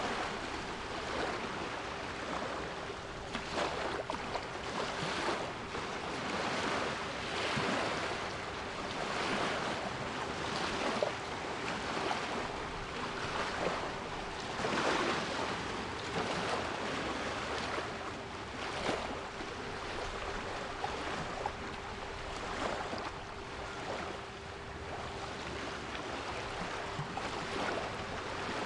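Sea waves washing ashore in repeated swells, with a steady 396 Hz pure tone held underneath.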